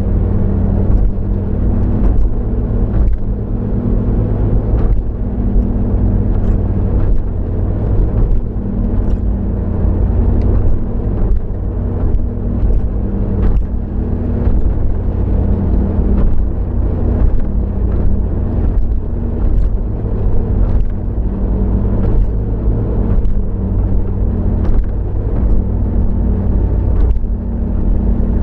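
Car driving, heard from inside the cabin: a steady low engine and road drone, with frequent faint, irregular ticks and knocks.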